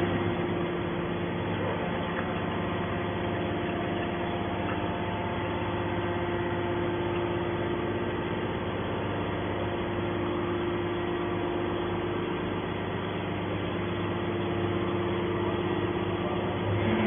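Hydraulic scrap steel baler's motor and pump running with a steady, even hum.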